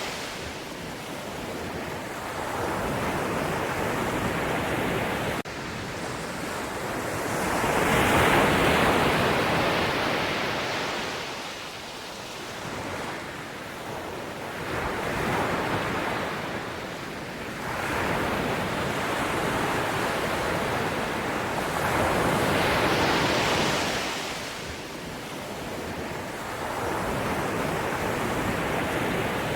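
Ocean surf: waves breaking and washing in, the rush swelling and falling back every few seconds, loudest about eight seconds in.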